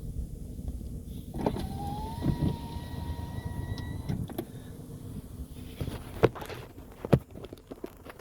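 A car's electric window motor whining for about two and a half seconds, its pitch rising a little as the glass travels, then stopping. Before it there is a low vehicle rumble, and near the end come two sharp knocks.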